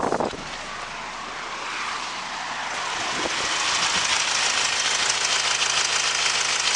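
Subaru EE20 2.0-litre turbo-diesel boxer four idling steadily with a light diesel clatter, getting louder about three seconds in and then holding steady.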